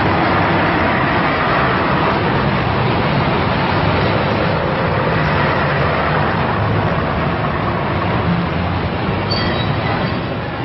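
A train running: a steady, loud rumble and rush of noise.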